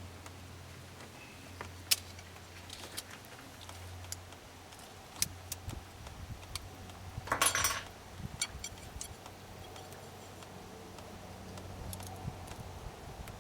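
Scattered light metallic clicks and clinks of small parts and hand tools being handled during hydraulic cylinder seal work, with a brief louder rattle about seven seconds in, over a steady low hum.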